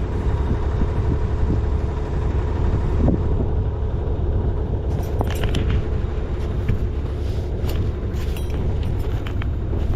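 A sailing yacht's engine running steadily under way at cruising speed, a low, even rumble. A few light clicks and rattles come through in the second half.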